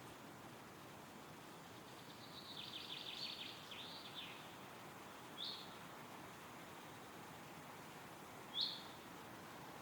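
Steady wind rustling through forest trees, with a songbird singing a short rapid twittering phrase about two seconds in, then two single short chirps later, the last one the loudest.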